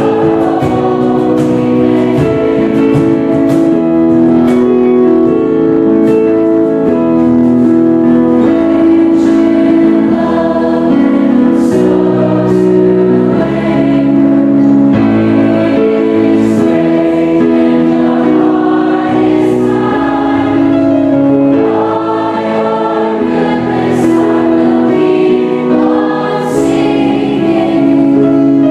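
Choir singing in parts, with sustained chords that change every second or so.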